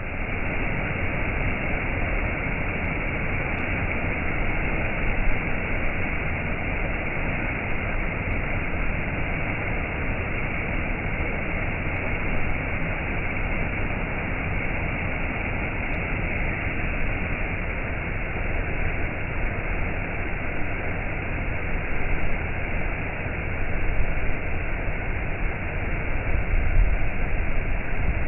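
Waterfall rushing steadily, an even roar of falling water with a low rumble underneath.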